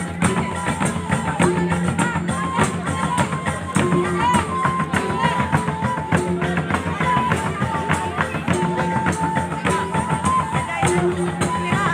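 Mandailing gordang sambilan ensemble playing: a dense, fast rhythm of many drum strokes over a repeating low gong pattern, with a high wind melody of held notes above.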